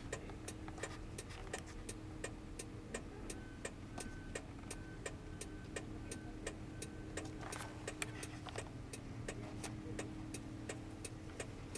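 A car's indicator flasher ticking steadily, about three clicks a second, over the low hum of the running engine heard from inside the cabin. A run of short, evenly spaced electronic beeps at one pitch sounds for a few seconds in the middle.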